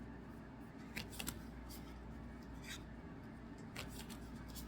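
Trading cards being handled: a few faint, short rustles and light snaps, about a second in, near the middle and shortly before the end, over a low steady hum.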